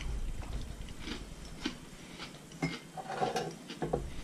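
A person chewing a mouthful of smoked sockeye salmon, with irregular small crunches and mouth clicks, busiest about three seconds in.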